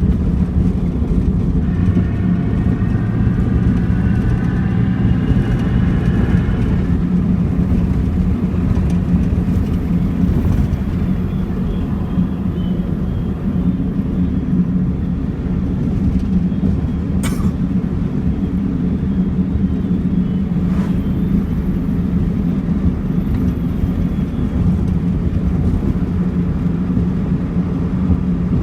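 Toyota Mark II's 1G straight-six engine running at a steady speed, a low even drone with no clear rises or falls in revs. Two sharp clicks come in the second half, about three and a half seconds apart.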